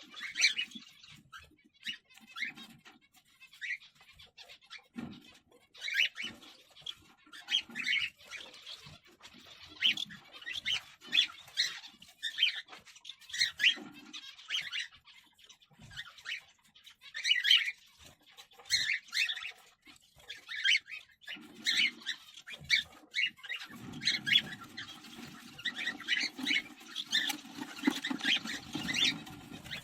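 Cockatiels in a nest box giving many short, raspy chirps and squawks in quick irregular runs. A low rumbling noise joins in for the last several seconds.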